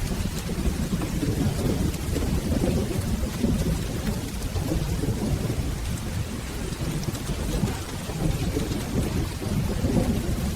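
Steady rain with a continuous low rumble of rolling thunder underneath.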